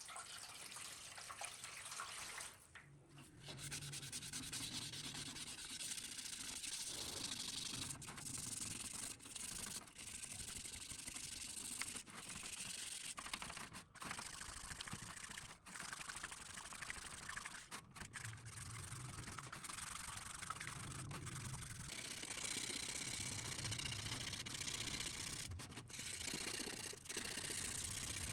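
Hand scrubbing of a ceiling fan part: steady back-and-forth rubbing, broken by many short pauses.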